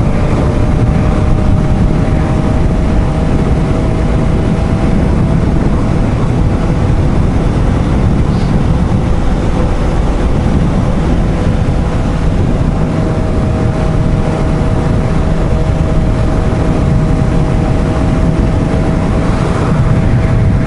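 Suzuki GSR750's inline-four engine running at a steady cruise, its pitch held level, under loud wind rush on the rider's microphone.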